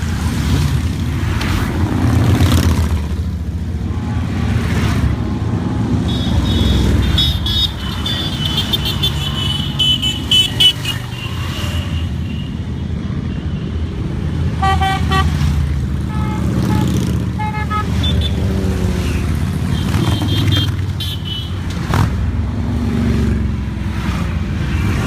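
A stream of motorcycles passing, their engines running with some revving, while riders sound their horns several times, one blast held for about five seconds.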